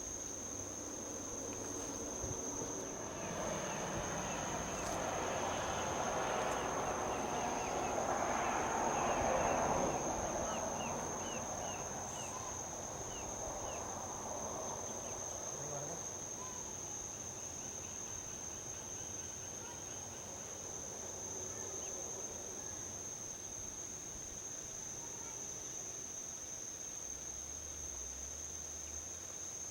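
A steady, high-pitched insect chorus holds on one tone throughout. Over it, a vehicle's tyre and road noise swells from about three seconds in, peaks near nine seconds, and fades away by about fourteen seconds: traffic passing on a highway.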